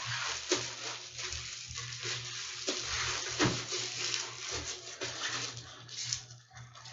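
Disinfectant spray hissing onto a parcel in a run of repeated spurts, with light handling noise.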